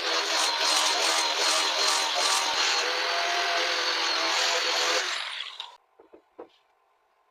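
Electric power tool running steadily on wood, then switched off about five seconds in and winding down to a stop. Two faint knocks follow.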